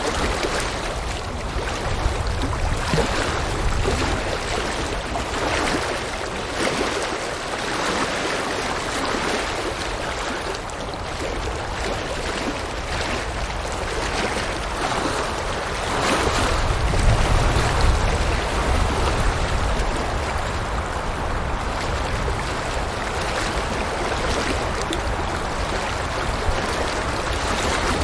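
River water rushing and splashing steadily over rocks. A low rumble swells under it in the first few seconds and again about sixteen seconds in.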